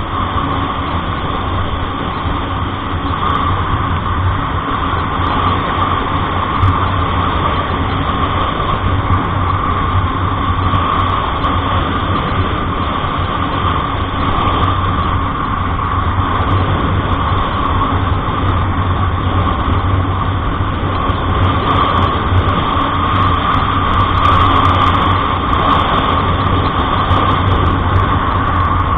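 Steady drone of a road vehicle on the move: an even engine hum with road noise, unchanging throughout.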